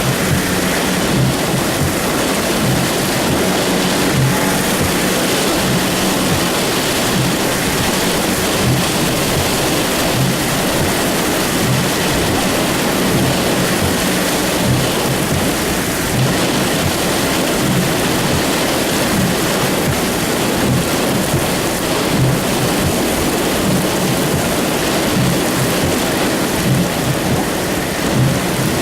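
Heavy thunderstorm rain pouring down in a steady, loud, dense hiss, with irregular low thumps underneath.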